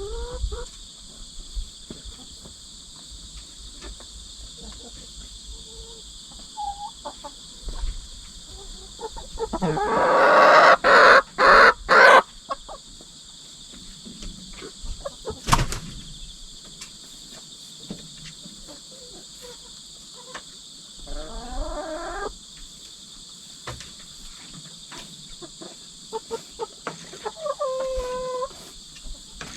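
Hens clucking and calling, with a loud, noisy flurry lasting about two seconds around ten seconds in, amid a pecking-order squabble between two newly merged hens. Insects chirr steadily behind.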